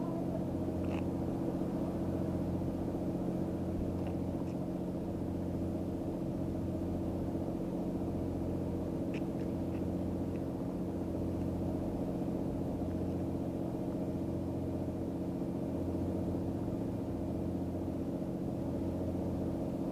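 An engine idling steadily, a low even drone with a few faint ticks over it.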